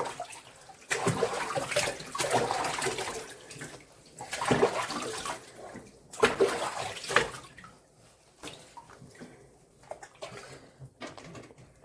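Bathwater being splashed and poured over a dog during a rinse, in several separate surges of splashing, weaker and more scattered in the last few seconds.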